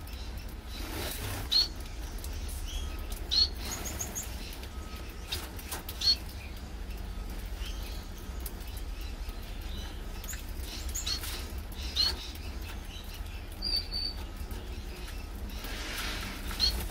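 Gouldian finches calling with short, high chirps, about five louder ones spread through, among fluttering wings.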